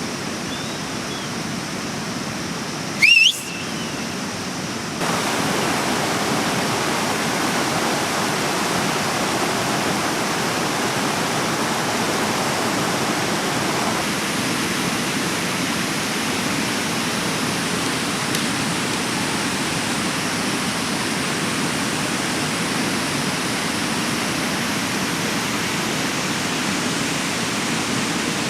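A mountain river rushing steadily. About three seconds in, a brief high rising whistle cuts through, the loudest moment, and the rushing grows louder a couple of seconds later.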